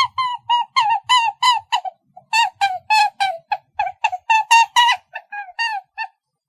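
A bird calling in a rapid run of short, loud, pitched notes, about four to five a second, with a brief pause about two seconds in.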